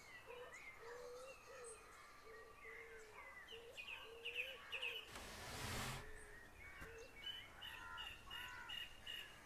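Faint birds chirping, many short quick calls, with a lower wavering call repeating beneath them during the first half. About five seconds in, a brief burst of hiss-like noise lasts under a second.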